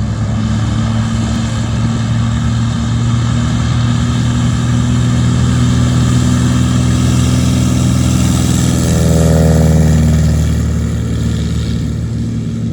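Light aircraft's piston engine running at takeoff power, a steady drone that swells to its loudest about ten seconds in and then eases off.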